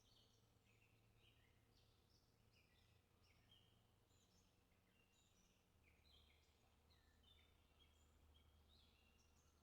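Near silence, with many faint short bird chirps throughout over a faint low hum.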